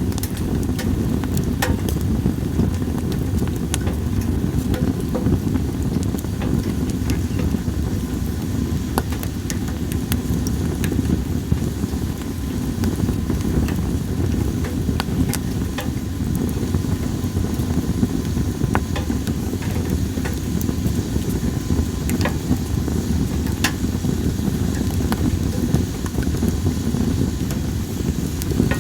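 Campfire of split sawtooth oak (kunugi) logs crackling, with sharp irregular pops over a steady low rumble.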